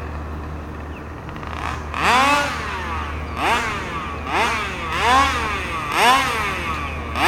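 Small two-stroke gas engine of an HPI Baja 5B RC car (OBR engine, new 990 carburetor on a test run) idling, blipped up about six times in quick succession, each rev rising and falling back in under a second.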